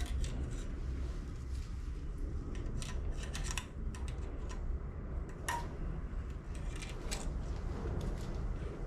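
Scattered light clicks and taps of small parts and hand tools being handled, a cluster of them about three seconds in, over a steady low hum.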